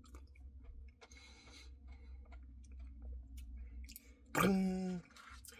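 Faint mouth sounds of eating, soft clicks and chewing, then a short steady vocal hum near the end.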